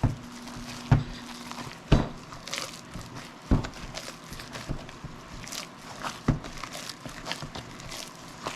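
Hands kneading ground jalapeño-cheese sausage meat in a bowl: irregular soft slaps and squishes, roughly one a second, as the mix works into a sticky, almost paste-like bind.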